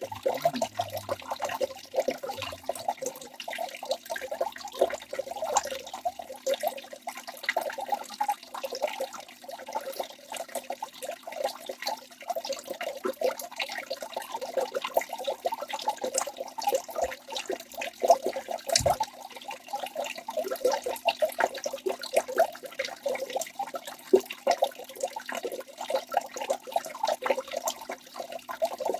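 Waterfall: water falling and splashing steadily, a dense, unbroken run of small splashes and gurgles.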